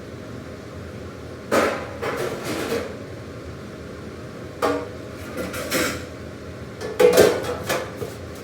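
Dishes and metal pans clattering and knocking together, a handful of separate clanks with a short ring, the loudest cluster near the end.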